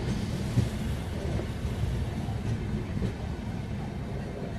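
Express train running slowly along a station platform, heard from inside the coach: a steady low rumble of the wheels on the track, with a couple of faint knocks.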